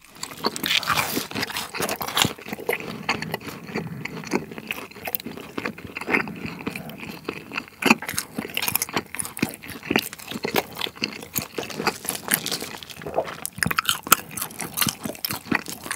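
Close-miked biting and chewing of fried cheese balls: a steady run of small crunchy clicks and wet mouth sounds.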